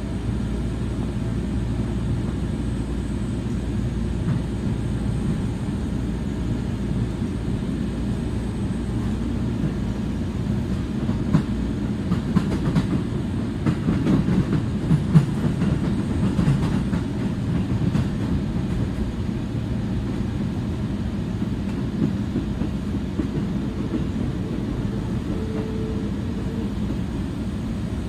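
Seibu commuter train heard from inside the passenger car, running with a steady low rumble of wheels on rail. A run of wheel clacks comes about halfway through.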